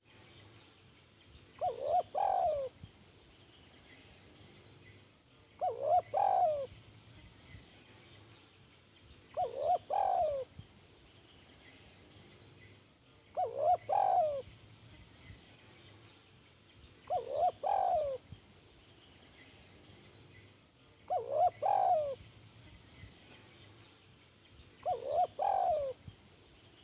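Spotted dove (tekukur) singing its cooing song, a short phrase of a few coos repeated seven times, about every four seconds; the song type keepers call 'kuk 1'.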